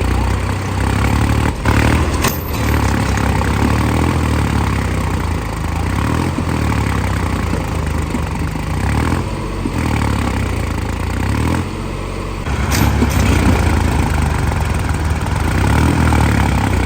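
Tractor diesel engine running under load, its pitch rising and falling several times as it is revved, with a couple of sharp clicks about two seconds in.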